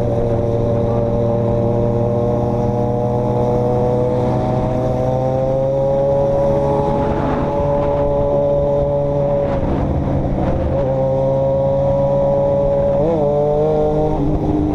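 A road vehicle's engine runs steadily while driving, with a constant low hum underneath. Its pitch rises a little about five seconds in, drops and wavers around ten seconds, then picks up again.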